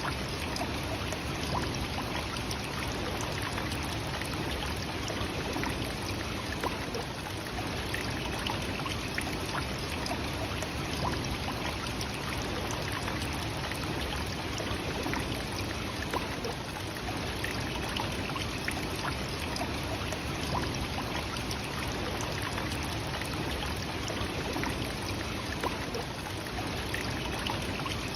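Nachi Falls, a tall waterfall, with its falling water rushing in an even, unbroken wash of noise.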